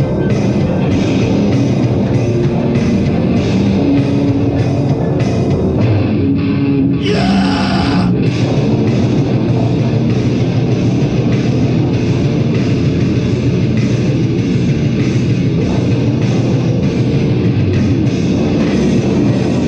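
A heavy metal band playing live with guitars and a drum kit, loud and without vocals. The low end drops out briefly about seven seconds in, under a burst of high, hissy noise.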